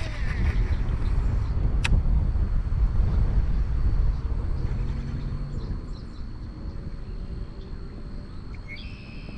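Strong wind buffeting the microphone, a heavy uneven low rumble that eases after about four seconds, with a single sharp click about two seconds in and a brief high chirp near the end.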